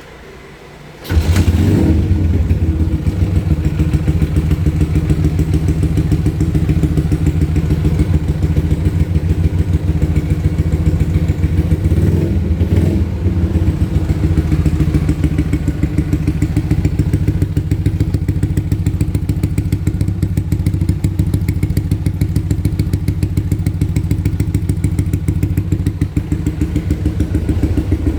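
Motorcycle engine starting about a second in, then running steadily at idle with a fast, even exhaust beat.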